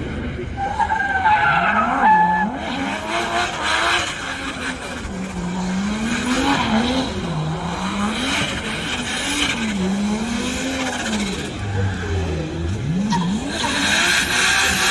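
Drift car sliding on the hill climb, its engine revving up and down again and again while the tyres squeal and skid, the screech strongest about a second or two in. A louder rush of noise sets in near the end.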